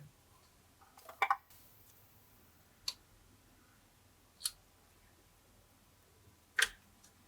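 Glossy slime being worked by hand, giving a few short, sharp sticky clicks and pops spread a second or two apart.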